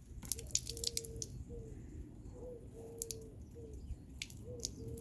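Wet foam dirt bike air filter being squeezed by hand to wring the rinse water out, giving a run of squelches and crackles, with short faint squeaky tones recurring throughout.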